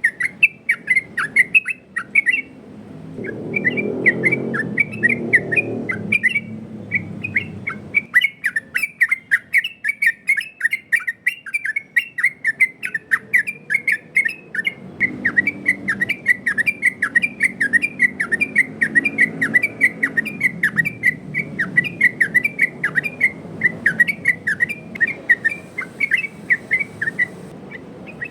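Sooty-headed bulbul (trucukan) singing a fast 'ropel' song: a rapid run of loud chattering notes, several a second, broken by a couple of short pauses. A low background rumble rises under it twice.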